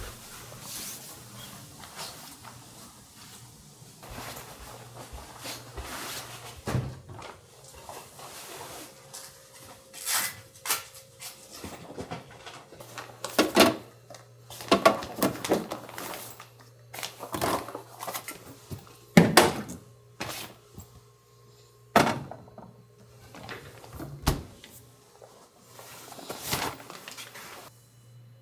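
Irregular knocks, thunks and clatter of objects being handled and set down in a small room, with a low steady hum underneath.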